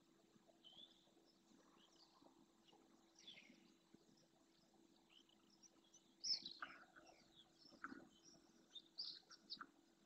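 Faint, scattered bird calls in a wetland: short high chirps and calls that slide downward, the loudest about six seconds in, with several more from about eight seconds on.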